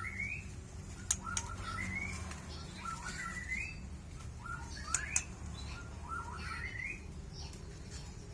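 Young white-rumped shama singing short, rising whistled phrases, repeated about once a second, with a few sharp clicks between them. A steady low hum runs underneath.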